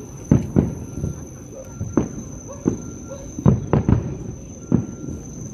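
Fireworks bursting across the harbour: a run of sharp bangs at irregular spacing, with several coming close together about three and a half to four seconds in.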